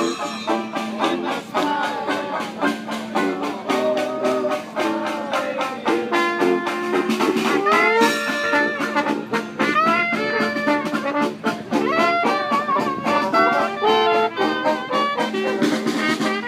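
Trad jazz band music with trumpet and trombone over a steady rhythmic beat, with sliding brass notes.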